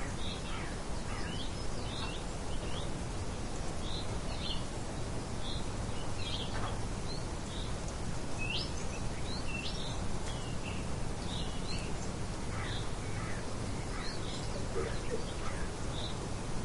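Steady light wind noise with small birds chirping throughout in short, high notes, a few of them sliding in pitch.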